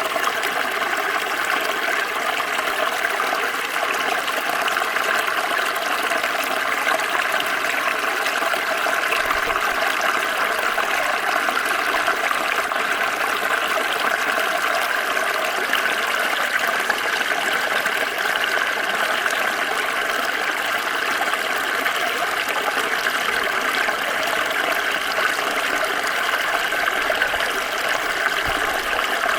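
Small stream flowing steadily, its water running and splashing over stones in an even rush with no pauses.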